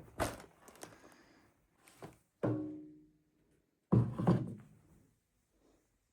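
Objects being handled and set down: a few knocks and thunks, one of which rings briefly with a short fading tone about two and a half seconds in, then a cluster of heavier knocks about four seconds in.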